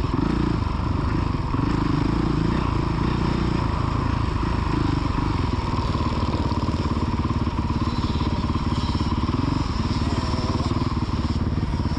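Small motocross dirt bike engine running, its pitch rising and falling as the throttle is worked.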